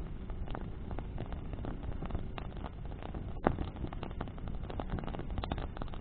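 Bonfire of burning branches crackling and popping, with one louder pop about three and a half seconds in, over a steady low rumble of flames blown by the wind.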